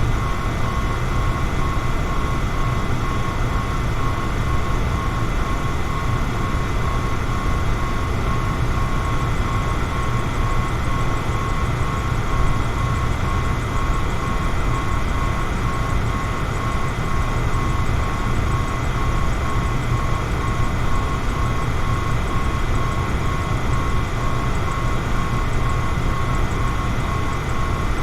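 Electric fan running steadily: an even rush of air with a low rumble and a faint, steady high whine.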